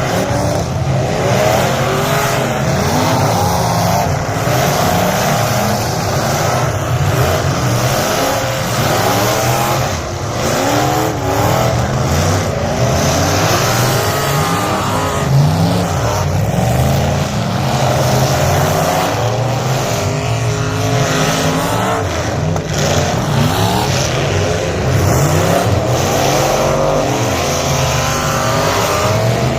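Several figure 8 race car engines running hard at once, their pitches climbing and falling as the cars accelerate and back off.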